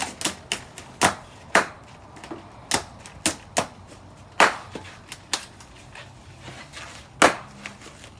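Balloons being popped: an irregular run of sharp pops and clicks, about a dozen, with a few louder bangs among them.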